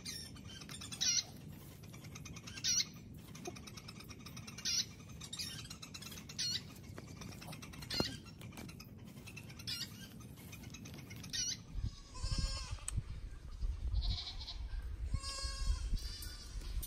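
A bird calling over and over: a short, high, wavering call about every two seconds. About twelve seconds in, background music with a strong bass takes over.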